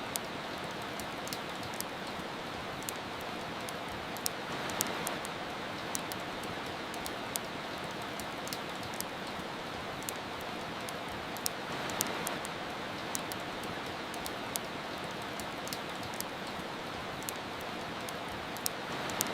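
Steady hiss of soft rain with frequent small, sharp crackles and pops from a wood fire in a fireplace, scattered irregularly; the rain swells slightly twice.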